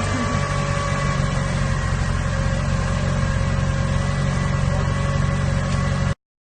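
Subaru EJ25D 2.5-litre flat-four engine idling steadily just after starting, with an even, unchanging pitch. The sound cuts off abruptly near the end.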